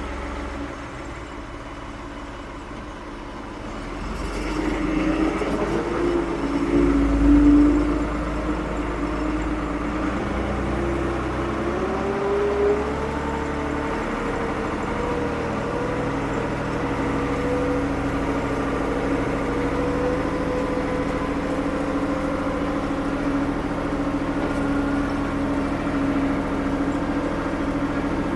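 The diesel engine of a 1975 Ford 550 backhoe, running just after starting and warming up. It idles at first, then about four seconds in it gets louder and its pitch climbs gradually to a steady, higher engine speed.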